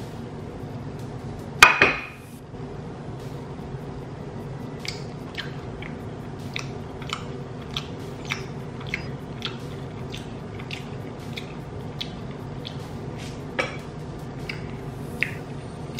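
Someone eating a pork rib by hand: chewing with a scatter of short, wet mouth clicks and smacks, about one or two a second, over a steady low hum. A single sharp clink or knock comes near two seconds in.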